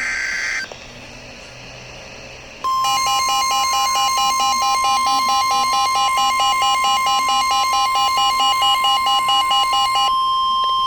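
NOAA Weather Radio warning alert: a short high warbling data burst at the start, then after about two and a half seconds the loud steady 1050 Hz warning alarm tone, with a pulsing beep sounding over it about four times a second until the last second or so. The tone signals that a severe thunderstorm warning is about to be read.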